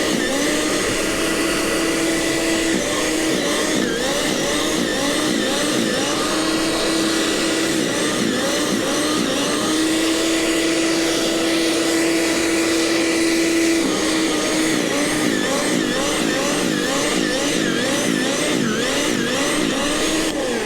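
Gasoline snowblower engine running steadily, its pitch wavering up and down over and over.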